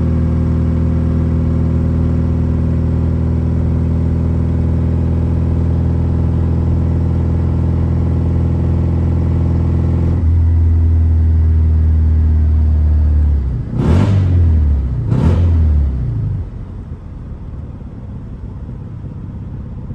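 BMW E36's engine running steadily with a loud exhaust, then revved in two quick blips about 14 and 15 seconds in, before settling to a quieter idle.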